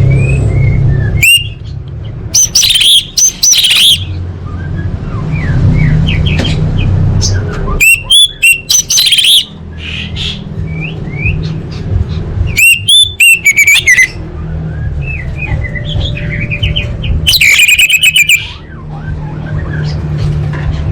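Orange-headed thrush singing: four loud phrases of rapid, high, repeated notes with softer chirps in between, over a low steady rumble.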